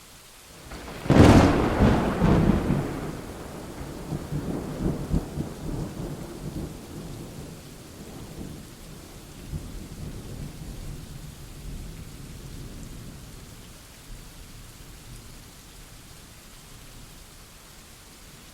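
A thunderclap: a sudden sharp crack about a second in, then a long low rumble that rolls and fades over the next ten seconds or so, over steady rain.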